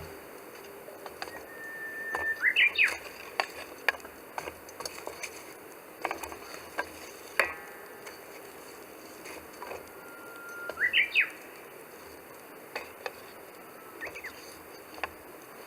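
A bird calls twice, about two seconds in and again about ten seconds in. Each call is a held whistle that breaks into quick rising notes. Under it, a wood campfire gives scattered crackles and pops.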